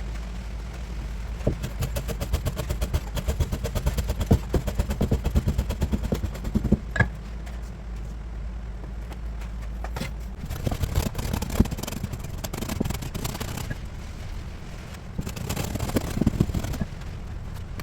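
Kitchen knife chopping rapidly on a cutting board in two long runs of quick, evenly spaced strokes, as in bone-cutting a pike conger fillet (hamo honekiri). A steady low hum continues underneath.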